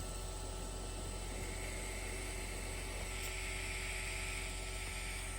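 Steady low electrical hum with faint hiss, and no distinct events: background room tone.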